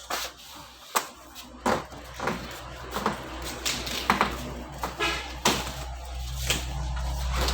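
Irregular knocks, clicks and short squeaks of packaging being handled while unboxing a chest freezer, with a steady low rumble building up near the end.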